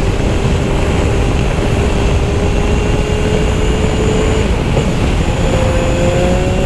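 Triumph Speed Triple's three-cylinder engine running under way, heard through heavy wind rush on a helmet microphone. Its note rises gradually and breaks briefly about four and a half seconds in, then carries on slightly higher.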